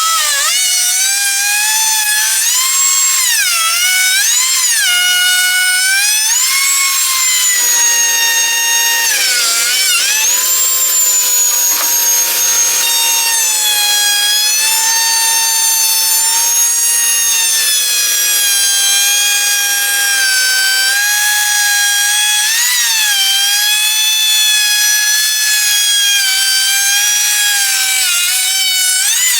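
Electric router running at high speed and cutting wood, its high whine dipping and recovering in pitch again and again as the bit loads up in the cut. A second, lower steady hum joins about 8 seconds in and stops about 21 seconds in.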